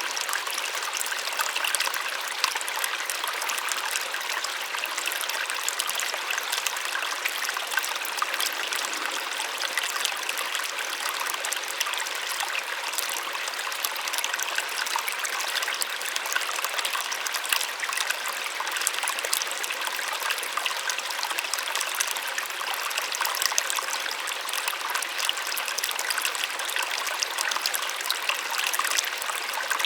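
Small waterfall: water splashing and running steadily with a soft, even rush and fine crackle, no low rumble.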